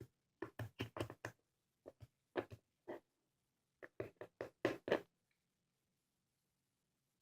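Slime being squished and poked by hand, making a run of short, sticky clicks and pops that stop about five seconds in.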